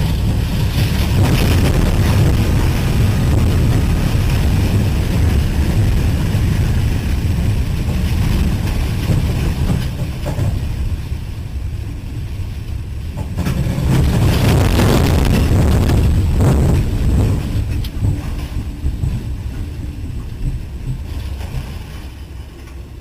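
Loud, continuous rumbling and rushing noise of a freight train in a derailment, heard from on board the lead locomotive. It eases after about ten seconds, swells again a few seconds later, then fades away near the end.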